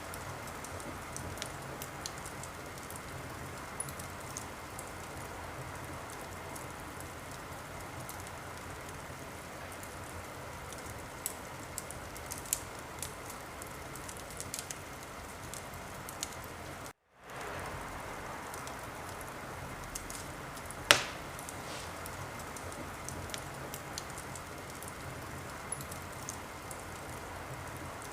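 Wood fire crackling in a fireplace: a steady hiss with scattered small pops and one loud pop about 21 seconds in. The sound cuts out completely for a split second about 17 seconds in.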